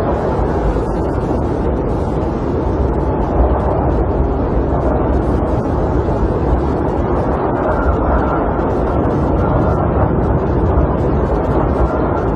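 Snowstorm wind against a camper, heard from inside: a steady low rumble of noise with no breaks.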